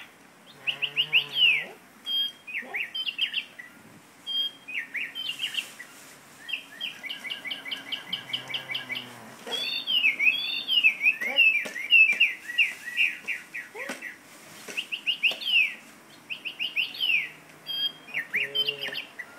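A singing bird in a cage: bursts of whistled chirps and trills, mostly quick falling sweeps repeated in runs, with short pauses between phrases.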